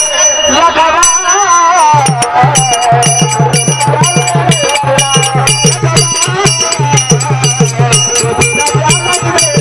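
Varkari bhajan: a male voice singing a wavering, ornamented line over fast, steady strokes of a hand drum and the ringing clash of taal hand cymbals. The drum drops out briefly about a second in, then comes back.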